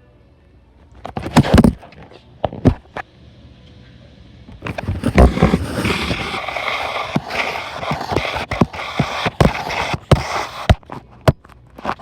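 A few sharp knocks, then about six seconds of continuous scraping and rattling with clicks and clatters through it, and a few more knocks near the end: items being handled and moved about.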